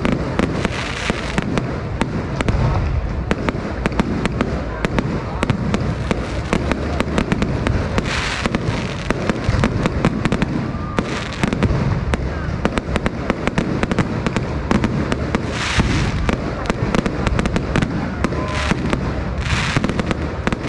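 Fireworks display going off continuously: a dense, unbroken run of bangs and crackles, with louder spells of crackling every few seconds.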